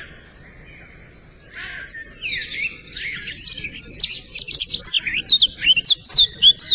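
Songbirds chirping and singing: quick sweeping high notes that grow louder from about two seconds in and come in fast runs through the second half.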